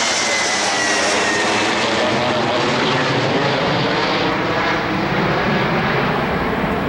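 Jet engines of a McDonnell Douglas MD-80 series airliner passing close, a loud steady rush with a high whine that falls in pitch. The upper hiss dies away about two-thirds of the way through as the jet moves off, leaving a lower rumble.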